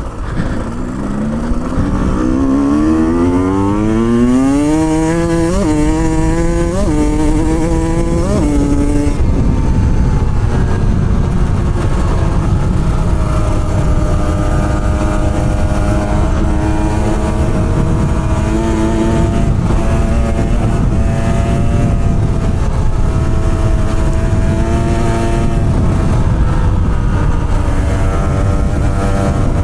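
Motorcycle engine accelerating through the gears, its pitch climbing and dropping back at each shift about five, seven and nine seconds in, then running at a fairly steady speed over a low rumble.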